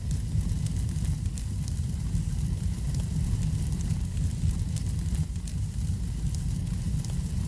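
Wood fire in a fireplace crackling, with frequent small pops over a steady low rumble.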